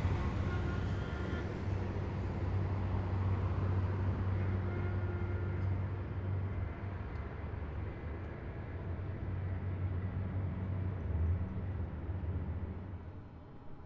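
Heavy military vehicles driving past in a column, a steady deep engine rumble that fades away near the end.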